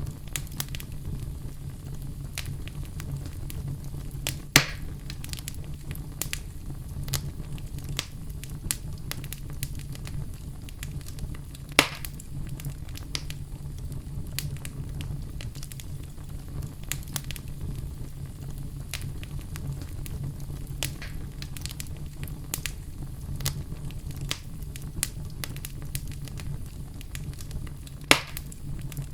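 Wood fire in a fireplace crackling: frequent small snaps over a steady low rumble, with three louder pops spread through.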